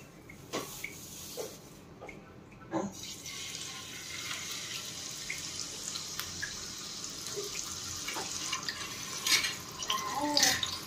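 Chicken chapli kebabs frying in oil in a pan on a low flame: a steady sizzle with scattered small pops, quieter for the first few seconds.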